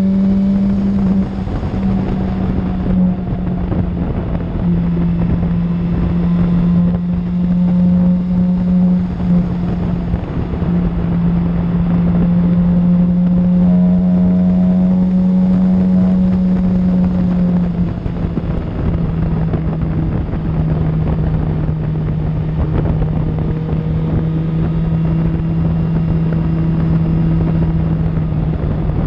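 Suzuki GSX-R750's inline-four through an Akrapovic exhaust, running at steady cruising revs with small changes in pitch; the note settles a little lower about two-thirds of the way through. Wind rushes over the microphone throughout.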